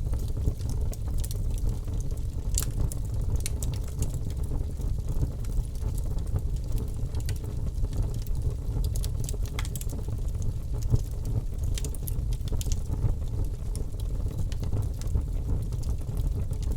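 Birch-wood fire burning in a fireplace: a steady low rumble of the flames with frequent sharp crackles and pops from the logs.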